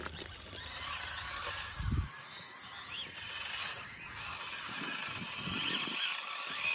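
Small electric motors and gearboxes of Axial SCX24 micro RC crawlers whining as they climb rocks, the whine rising and falling with the throttle. There is a brief low thump about two seconds in.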